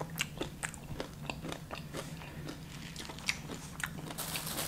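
Close-miked chewing with mouth smacking: irregular wet clicks of the lips and tongue, several a second, over a steady low hum. A hiss builds near the end.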